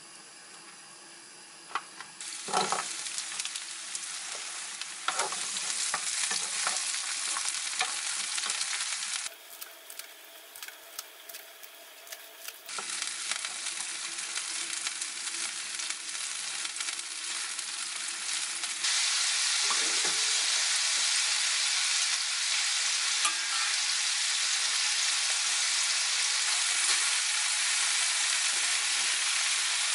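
Garlic and shrimp sizzling in olive oil in a hot frying pan, with scattered clicks and pops, briefly quieter in the middle. About two-thirds of the way in, a louder, steady sizzling hiss takes over.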